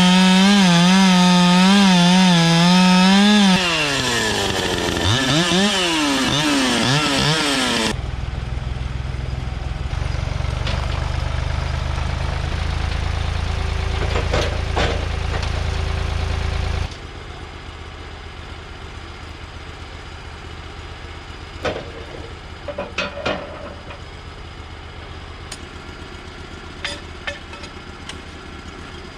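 Two-stroke chainsaw running at full throttle, then dropping in pitch and revving up and down a few times. It cuts to a steady low engine rumble, then to a quieter stretch with scattered knocks and clicks.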